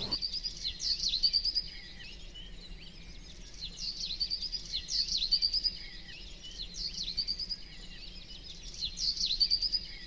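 A songbird singing repeated short phrases, each a quick downward note followed by a fast trill, coming in clusters a few seconds apart, over a steady low hum.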